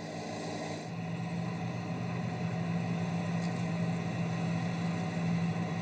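Blackcurrant harvester's engine running steadily, a low hum that gets louder about a second in.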